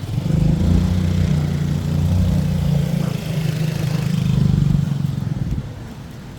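Motor vehicle engine running close by, a steady low hum that fades away about five and a half seconds in.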